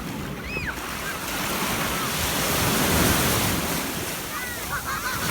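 Sea waves breaking and washing on a beach, the surf swelling loudest about halfway through, with wind buffeting the microphone.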